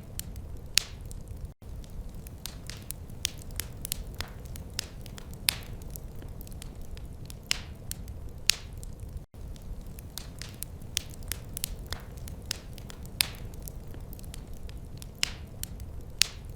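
Wood fire crackling, with sharp irregular pops over a steady low rumble of the flames. The sound cuts out for an instant twice, about a second and a half in and again past the middle.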